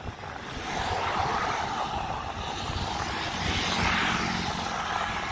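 A motor vehicle's engine running close by with road noise, swelling up about a second in and staying loud.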